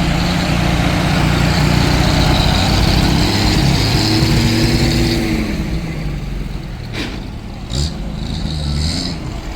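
A motor vehicle's engine running close by, loud for the first five seconds or so and then dropping away, with a sharp click about seven seconds in.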